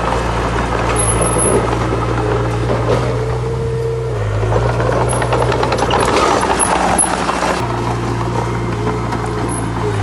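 Heavy diesel construction machinery running steadily at work, with a louder, rougher stretch about six to seven and a half seconds in.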